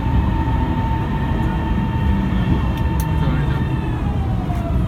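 Metro train's electric traction drive whining at a steady pitch, with the whine starting to fall in pitch in the second half as the train slows, over a constant rumble.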